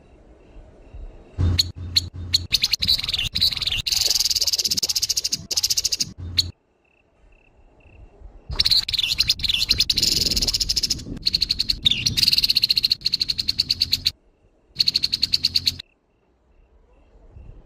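Grey-headed babbler giving its harsh, rough call: fast runs of rapidly repeated rasping notes in two long bouts of several seconds each, then a short third burst.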